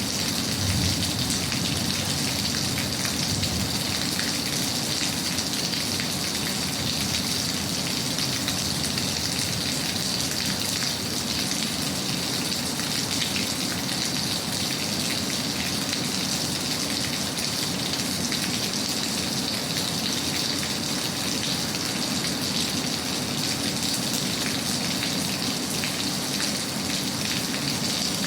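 Steady, heavy rain falling, a dense even patter of drops that keeps on without change.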